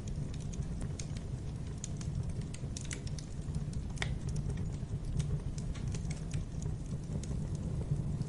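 Wood fire burning in a fireplace: a steady low rumble with irregular small crackles and pops throughout, a few of them sharper.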